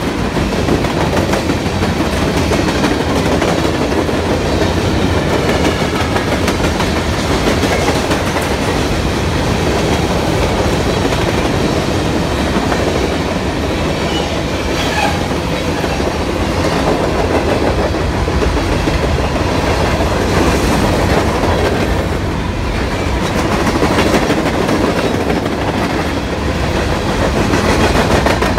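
Fast CSX grain train's covered hopper cars passing close by, making a loud, steady wheel-on-rail noise.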